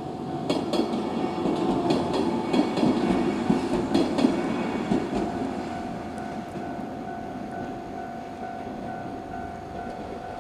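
A two-car 103 series electric train passing over a level crossing: a loud rumble with repeated clacks of the wheels over rail joints, loudest in the first five seconds and then fading. A level crossing alarm rings steadily throughout.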